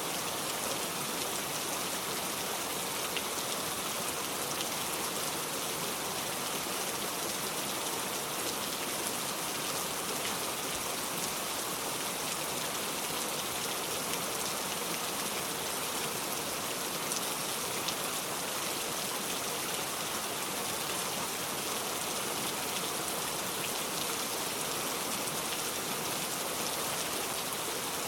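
Steady rain falling, an even hiss of rain with scattered individual drops ticking on a surface.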